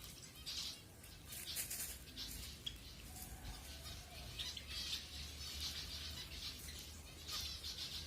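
Zebra finches calling, many short chirps coming in quick clusters throughout, over a faint low steady hum.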